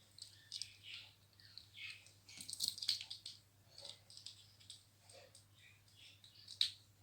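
Ringneck parrot playing with a toy: scattered light clicks and rattles, busiest about a third of the way in, with one sharp click near the end.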